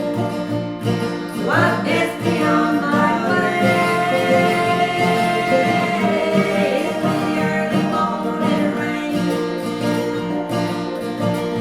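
Live acoustic folk music: guitar with a melody line that slides up about a second and a half in and holds a long note through the middle.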